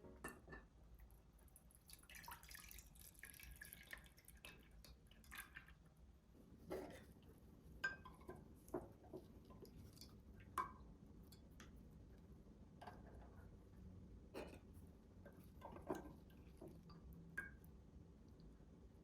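Faint, irregular light clicks and taps of hands at kitchen work, about twenty spread through the stretch, over a low steady room hum.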